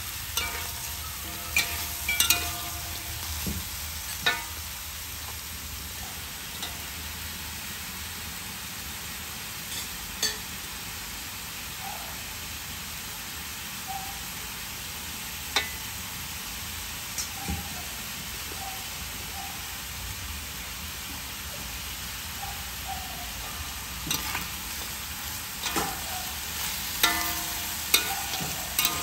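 Frog meat sizzling in a wok, with a metal spatula scraping and knocking against the pan as it is stirred. The spatula strokes come in quick clusters in the first few seconds and again near the end; in between, the frying goes on as a steady sizzle with only the odd knock.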